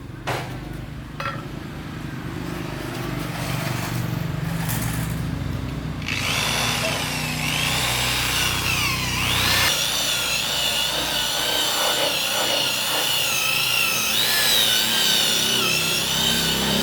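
An electric power tool's motor runs with a high whine whose pitch wavers as its speed changes under load. A steady low hum comes first, and the whine starts about six seconds in.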